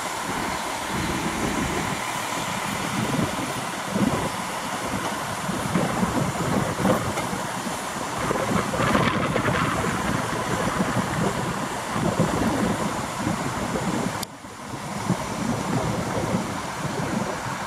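EN63A electric multiple unit passing at close range and running away along the track, its wheels and bogies rumbling on the rails, loudest about a third of the way in, with wind buffeting the microphone.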